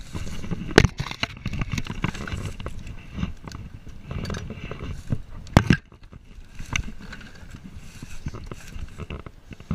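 Low rumbling noise with irregular knocks and scrapes; two sharp knocks stand out, about a second in and just past halfway.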